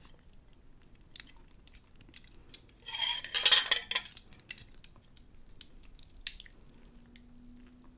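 Utensils clinking and scraping on dishes while a second serving of pancit bihon noodles is dished up. There are scattered light clicks, and a louder clatter with some ringing about three seconds in.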